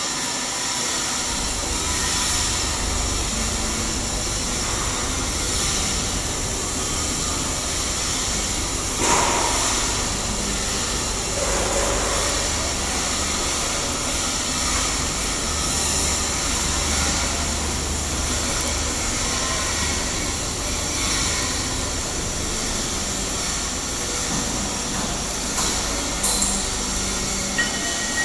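Shielded metal arc welding with an E7018 electrode: the arc runs as a steady hiss over a low machine hum that comes in about a second in. One sharp knock about nine seconds in.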